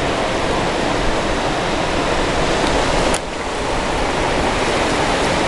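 Caspian Sea waves washing in a steady, loud rush, with a brief lull about three seconds in.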